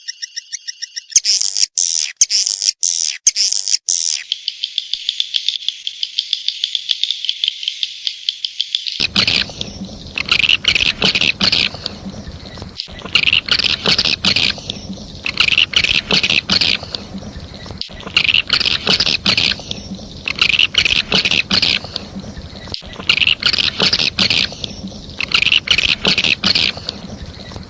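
Recorded swiftlet calling sound, used to lure swiftlets into a nesting house: high, rapid chirping and twittering. A few sharp chirps come about a second in, then a steady twitter, and from about a third of the way through the chirping comes in bursts roughly every two seconds over a low hum.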